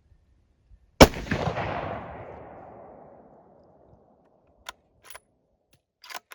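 A single deer-rifle shot about a second in, its echo rolling away over the next two to three seconds. A few short clicks follow near the end.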